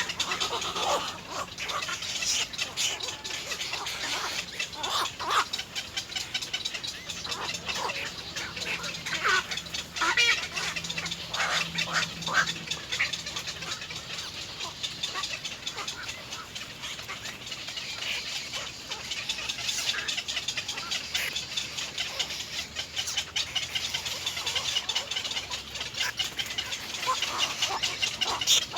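Little egret nestlings begging for food: continuous rapid, harsh chattering and squawking calls, with louder, lower cries near the start and around the middle.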